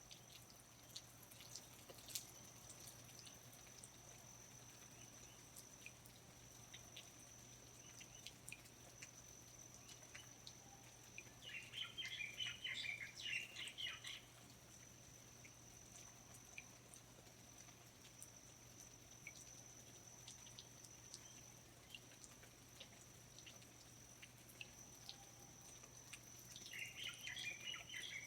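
Faint rainforest ambience: scattered water drips and a steady high thin tone, with a bird's rapid chattering song about eleven seconds in and again near the end.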